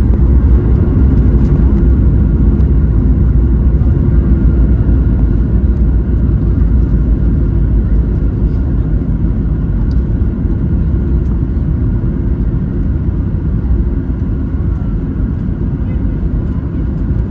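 Cabin noise inside a Boeing 737 MAX 8 during landing: a loud, steady low rumble of engines, airflow and the airframe, easing gradually as the aircraft slows.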